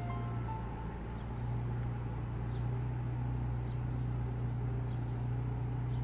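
Steady low hum of a car's engine with a faint haze of road or street noise, and a few faint, short bird chirps scattered across it. A plucked-string music note dies away at the very start.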